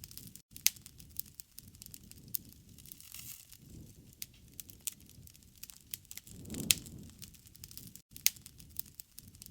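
Campfire crackling, with many sharp pops and snaps over a low rumble that swells and fades every few seconds. The loudest snap comes about two-thirds of the way in.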